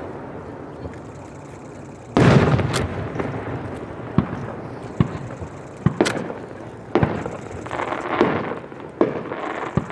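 Aerial firework shells bursting. A fading rumble runs through the first two seconds, then a heavy boom about two seconds in, followed by a string of sharp cracks about once a second, each trailing off in a rolling echo.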